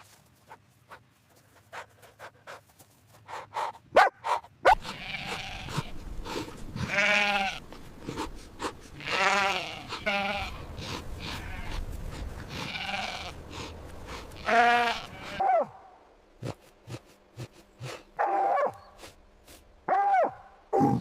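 Bleating animal calling repeatedly, about eight wavering bleats a couple of seconds apart, with clicks and handling noise between them.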